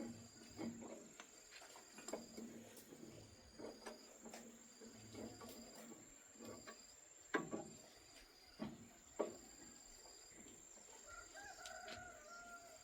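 Faint scattered knocks and clicks, two sharper ones about halfway through, then a rooster crowing near the end.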